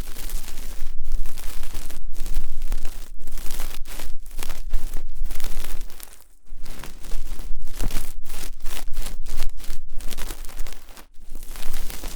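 Close-miked ASMR ear-cleaning sounds: an ear pick scraping and rubbing in quick scratchy strokes, with two short pauses, one about midway and one near the end.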